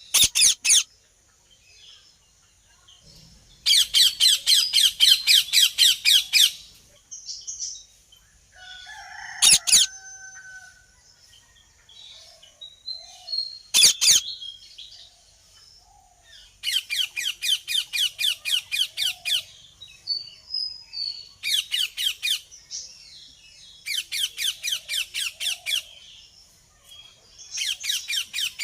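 Indian ringneck parakeets (rose-ringed parakeets) calling in bouts of shrill, rapidly repeated screeches, about four a second, each bout lasting one to three seconds. A couple of single sharp calls come between the bouts.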